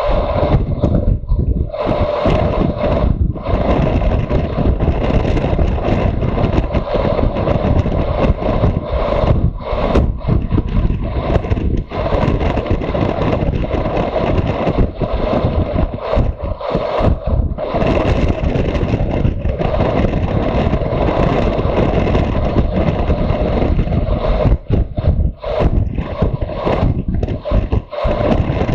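Motorcycle on the move: loud wind rush on the microphone over the engine's steady note, with brief dips now and then.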